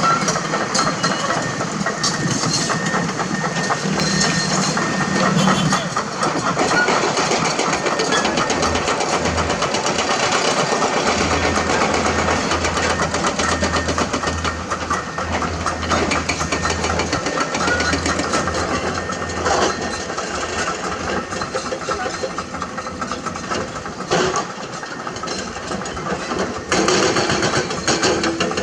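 Komatsu hydraulic excavator's diesel engine running as the machine works, with a dense clatter over it; the low engine note grows stronger for several seconds midway, and a few sharp knocks come near the end.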